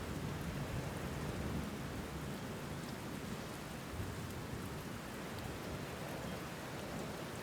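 Steady rain falling, with a low rumble beneath it.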